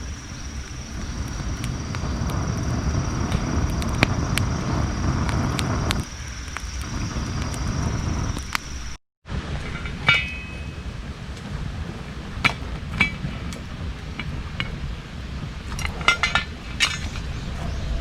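Wind rumbling on the microphone, with a steady high whine in the first half. After a brief cut-out about halfway through come scattered light metallic clinks and taps of camp cookware being handled, a quick cluster of them near the end.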